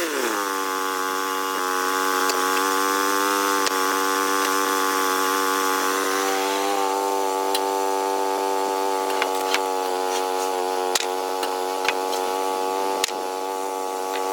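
Small sawmill's engine running steadily after its pitch drops right at the start, as the saw comes out of the cut. A few sharp knocks come in the second half.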